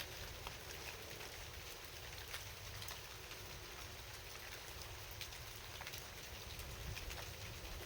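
Steady rain falling at night, an even hiss dotted with many separate drops ticking irregularly.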